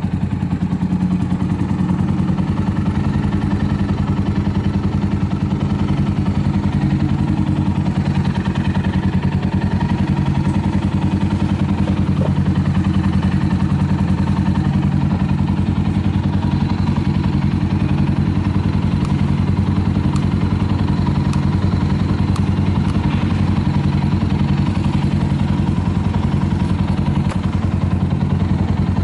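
Suzuki Grasstracker Big Boy's single-cylinder engine idling steadily through an aftermarket Supertrapp 4-inch muffler, with no abnormal noises. A few faint ticks sound over it in the second half.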